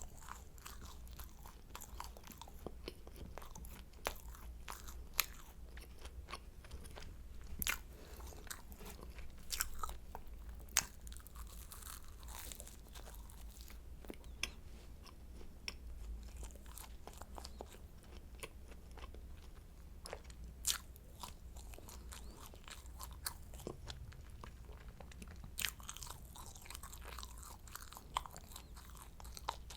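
Close-miked crunching and chewing of flaky croissant pastry: irregular sharp crackles as the crisp layers break, scattered all through.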